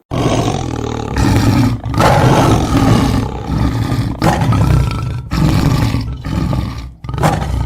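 Tiger growling and roaring: a series of loud, rough roars, about six, separated by short breaks.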